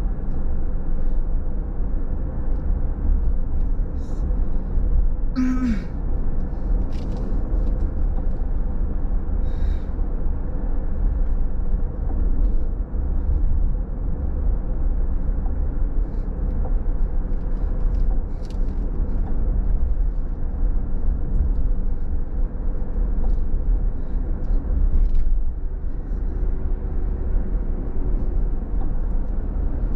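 Steady low road rumble of a car driving on a rain-wet road, with a few short clicks over it.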